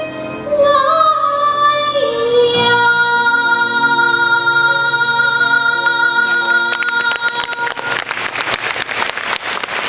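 A young girl singing the final phrase of a Chinese children's song with musical accompaniment, ending on a long held note. Audience applause breaks out shortly before the note ends and carries on.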